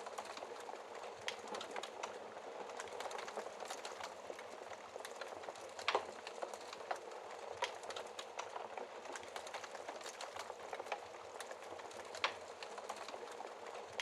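Logs burning in a fireplace, crackling: a steady hiss with scattered sharp pops and snaps, two louder pops about six seconds in and again about twelve seconds in.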